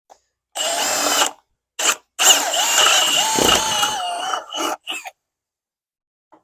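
Handheld power tool run in several trigger bursts, one short and one long, with a short blip between and after; the motor's pitch dips and rises as the trigger is worked.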